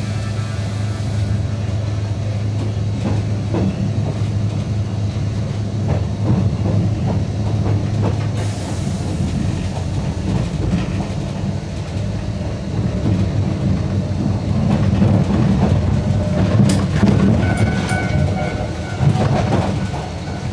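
Narrow-gauge electric train of the Yokkaichi Asunarou Railway running along the line, heard from on board. There is a steady low hum from the running gear with wheels clacking over rail joints, and a brief high squeal near the end.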